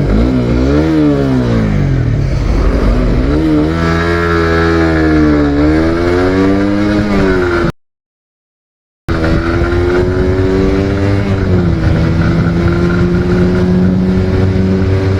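GSX-R motorcycle engine accelerating hard through the gears: the pitch climbs and drops back at each upshift, three or four times. About eight seconds in the sound cuts out for a second and a half, then the engine comes back holding a steadier, high note with one more shift.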